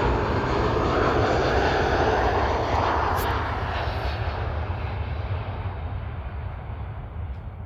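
Boeing 737 jet engines going by close and loud, the noise holding for about three seconds, then fading steadily as the aircraft moves away.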